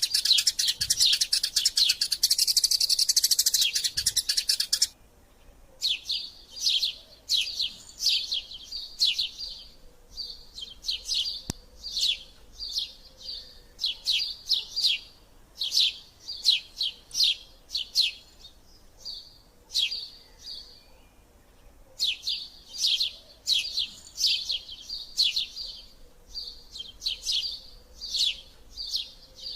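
Eurasian tree sparrow chirping. For the first five seconds there is a dense, loud, unbroken chatter, which cuts off abruptly. After that come short bursts of sharp chirps, a few at a time, repeated every second or so.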